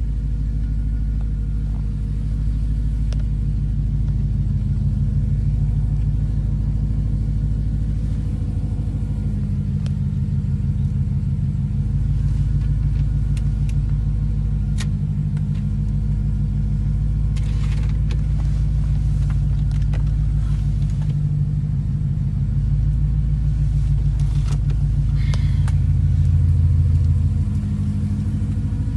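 BMW E92 M3's 4.0-litre S65 V8 idling steadily after a cold start, with a deep, even exhaust note. Near the end it gets louder for a couple of seconds, then settles back.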